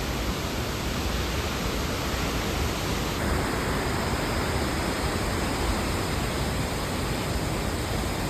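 Victoria Falls: a steady, dense rush of falling water, with a slight change in its sound about three seconds in.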